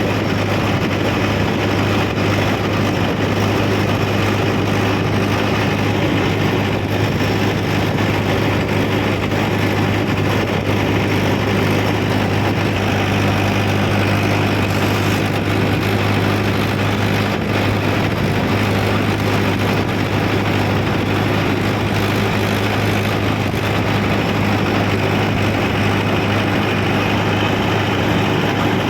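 Mahindra tractor's diesel engine running steadily under load, a constant low drone that holds unchanged throughout.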